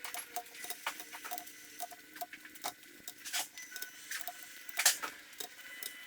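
Irregular light metallic clicks and ticks, a few a second, with one sharper click nearly five seconds in: hand tools working on the engine as the cylinder head is bolted down.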